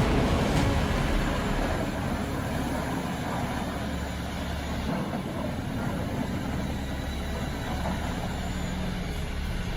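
Heavy vehicle engine running steadily with a low drone.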